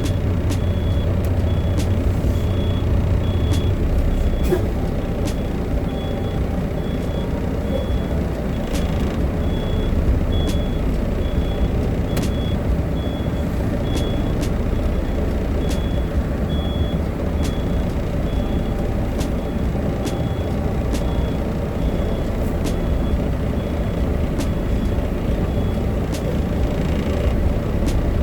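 A truck's backup alarm beeps about once a second over a truck engine idling; the beeping stops near the end. It is a truck reversing out of the queue at the gate.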